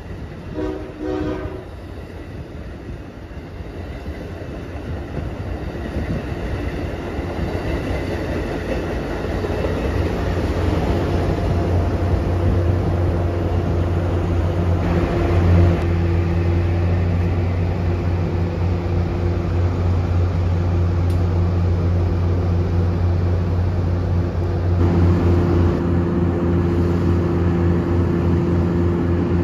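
Electric trains at a station: a brief train horn sounds about a second in, then a steady low electric train hum grows louder over the next ten seconds and holds.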